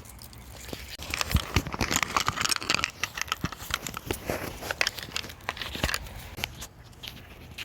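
Dry leaves crunching and crackling underfoot in a quick, irregular run of crackles, busiest between about one and six seconds in.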